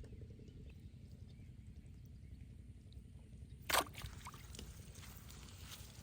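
A single short splash in the canal water about two-thirds of the way in, followed by faint trickling, over a steady low rumble.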